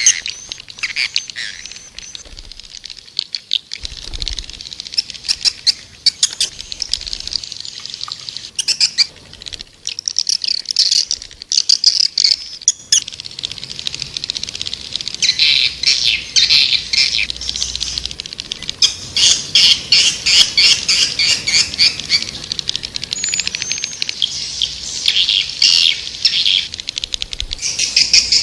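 Swiftlets twittering in fast, dense trains of high chirps, sparser for the first several seconds and thickest from about fifteen seconds in: a swiftlet calling recording of the kind played to lure swiftlets to nest houses.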